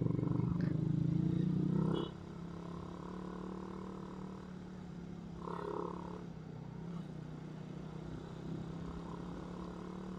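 Suzuki Raider 150's single-cylinder four-stroke engine running while the motorcycle climbs a hill. It is louder for the first two seconds, then drops abruptly to a quieter, steady running note.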